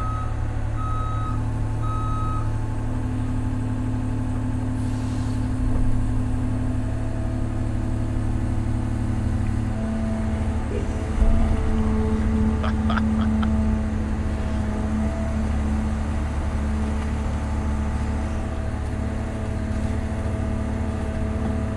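Large excavator's diesel engine running steadily under load, with its travel alarm beeping a few times at the start. The engine note shifts about halfway through, and a brief cluster of higher clanks or squeaks comes a couple of seconds later.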